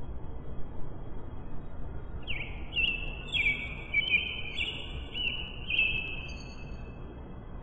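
Birds calling in bare woods: a string of overlapping high, clear whistled notes for a few seconds, over a low steady rumble of outdoor background noise.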